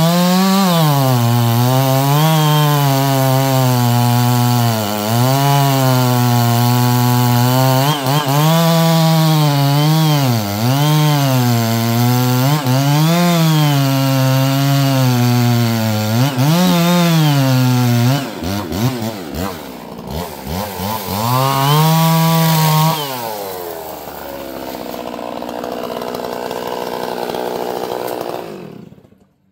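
Two-stroke chainsaw running under load, its engine pitch rising and falling repeatedly as it cuts wood. About eighteen seconds in the engine note breaks up and dips, then settles lower and cuts off near the end.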